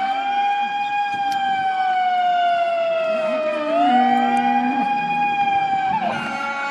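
A man's voice drawing out a long chanted call in two held notes. Each note sags slowly in pitch, and the second starts a little under four seconds in and breaks off about six seconds in.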